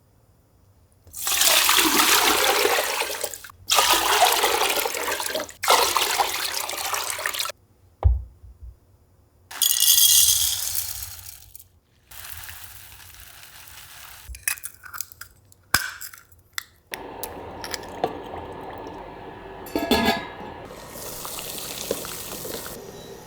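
Running water, in several short bursts that start and stop abruptly, followed by quieter scattered clicks and knocks.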